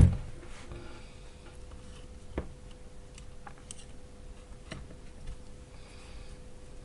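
A few faint, scattered clicks and light taps from handling battery cells and small parts, the sharpest about two and a half seconds in, over a steady faint hum.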